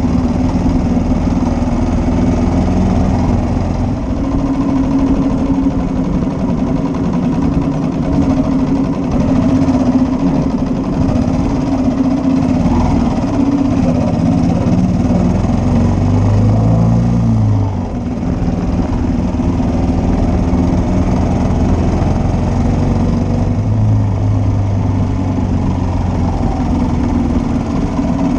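Engine of a 1941 Matchless G3L, a 350 cc single-cylinder four-stroke motorcycle, running steadily under way. About two-thirds of the way through, its pitch briefly rises and then drops, with a short dip in level.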